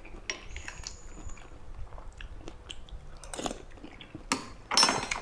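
A person chewing and smacking a mouthful of eel curry close to the microphone. There are many small wet clicks, and a few louder noisy bursts in the last two seconds.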